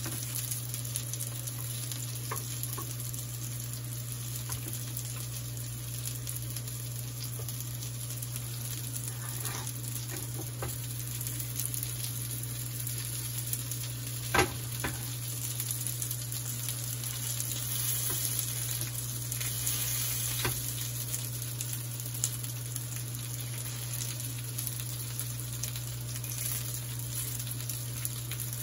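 Chicken kabab patties sizzling steadily as they fry in oil in a pan, with a spatula scraping and clicking against the pan now and then. A single sharp knock about halfway through, and a steady low hum underneath.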